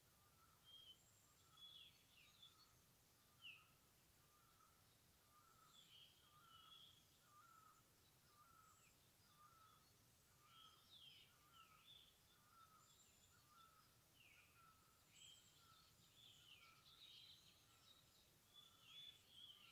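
Faint forest birdsong: one bird repeats a short note about twice a second without pause, while other birds add scattered higher chirps and quick falling whistles.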